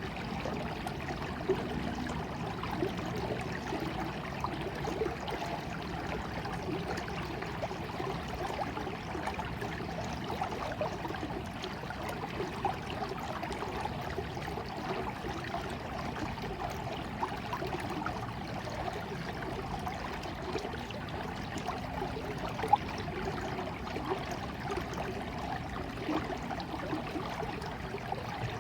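Small stream flowing steadily, a continuous trickling and babbling with a few brief louder splashes.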